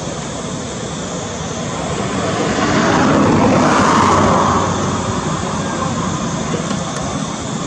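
Engine noise of something passing: a steady rushing that swells to its loudest about three to four seconds in, then eases back to a steady level.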